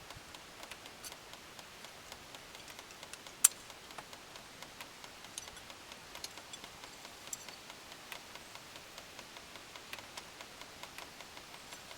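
Faint, scattered small metal clicks and ticks as two snap rings are fitted onto a hydraulic cylinder part by hand, with one sharp click about three and a half seconds in.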